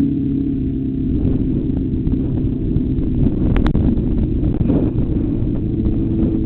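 Motorcycle engine running at a fairly steady pitch over a heavy low rumble, with a single sharp click about three and a half seconds in.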